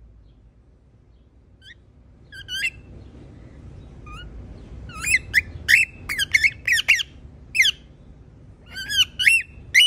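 Pet parrot giving short, shrill squawks and chirps, each a quick glide in pitch: a few at first, then several a second from about halfway in.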